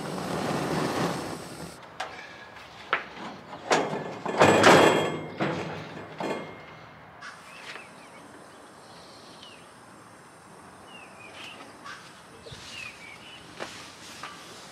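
Several sharp knocks and one loud burst of noise in the first half, then a quieter outdoor background with birds chirping now and then.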